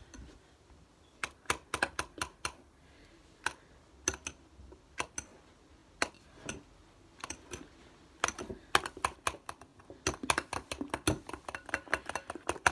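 A run of sharp, irregular clicks and taps, scattered at first and coming thick and fast from about eight seconds in.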